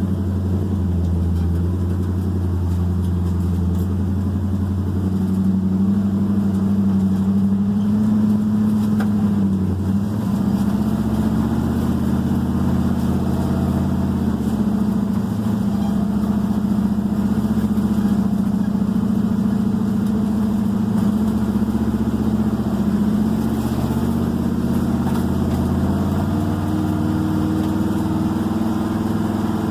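1978 Jeep CJ7's engine running steadily, its pitch easing up and down slightly a few times.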